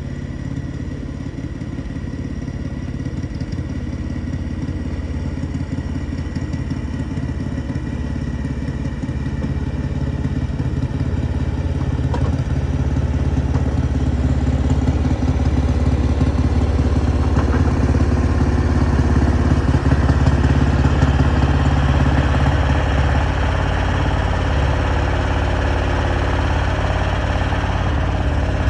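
Engine running steadily at idle, growing gradually louder over the first twenty seconds and then holding level.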